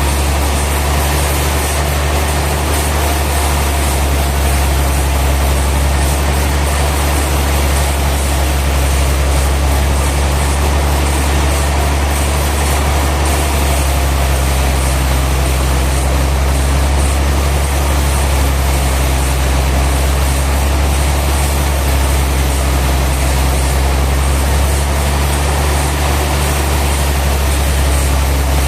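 Sawmill machinery running steadily: a heavy engine's deep, constant hum with an even noisy wash above it, unchanging throughout.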